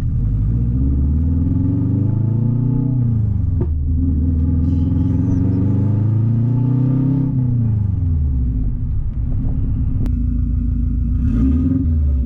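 Subaru wagon's turbocharged flat-four running through a catless open downpipe with no exhaust after it. The engine pulls hard twice, rising in pitch, with a shift between, then drops back and holds a steady loud drone.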